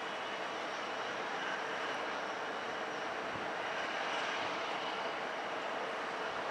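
Airliner engines running, a steady rushing sound with a faint even whine.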